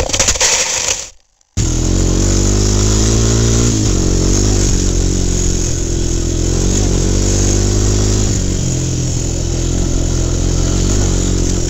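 A brief rush of noise cuts to silence about a second in. From about a second and a half in, a motor runs steadily, its pitch wavering slightly.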